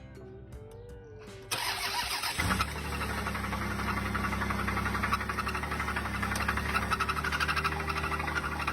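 A car engine starts about a second and a half in and keeps running steadily, with faint background music before it.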